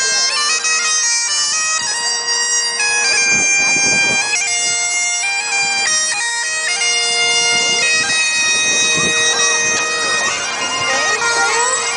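Bagpipes playing a tune over a steady drone, the melody stepping from note to note.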